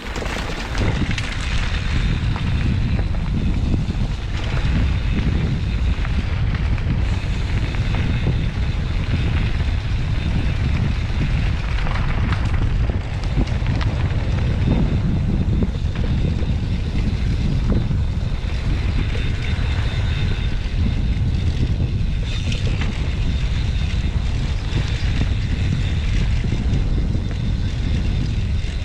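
Steady wind rumble on the microphone of a camera on a mountain bike riding down a trail, with scattered rattles and knocks from the bike over rough ground.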